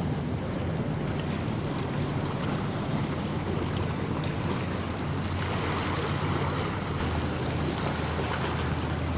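A boat's engine drone in the inlet, with waves washing and wind buffeting the microphone; the hiss of water grows louder about halfway through.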